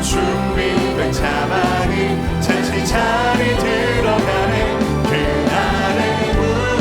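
A live church praise band and singers performing a contemporary worship song, with voices over the band and regular cymbal hits.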